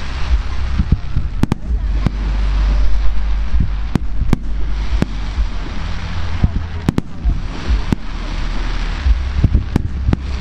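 Aerial fireworks display: a dozen or so sharp bangs of shells bursting at irregular intervals, over a continuous hiss and low rumble.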